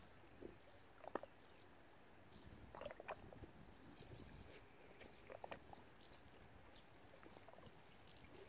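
Near silence: faint outdoor ambience with scattered soft ticks and small clicks, a couple of them slightly louder about a second in and around three seconds in, and a few faint short high sounds.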